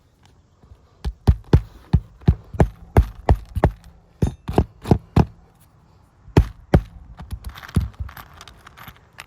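Hammer driving roofing nails into asphalt shingles: a quick run of sharp blows, about three a second, then a pause and a few more strikes. The shingle above is bent back to reach the nail line, and these shingles are brittle enough to crack from it.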